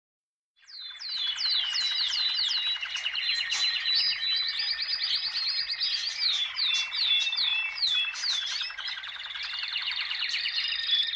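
Songbirds singing in a chorus, many quick downward-sweeping whistles and trills, over a dense, fast-pulsing background chorus. It starts suddenly about half a second in, after silence.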